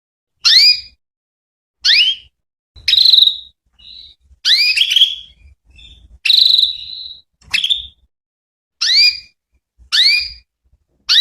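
Female canary calling: short, high whistled calls, each a quick upward sweep, some held briefly at one pitch, repeated about every second and a bit. It is the call used as a lure to make male canaries answer.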